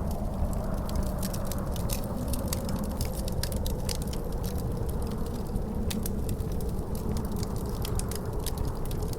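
Wood fire crackling, with frequent sharp pops, over a steady low rumble of wind and a faint, slowly wavering howl.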